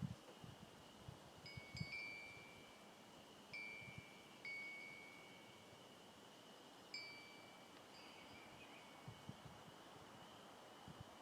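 Wind chime ringing faintly, single high notes struck irregularly every second or two, each dying away, over a steady faint high hum.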